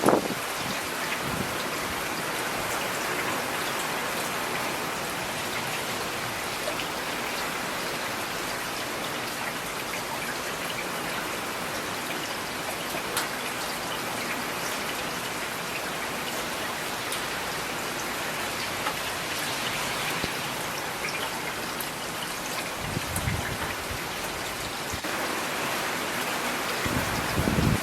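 Steady rain falling, with individual drops ticking on a surface. There are a couple of brief low rumbles near the end.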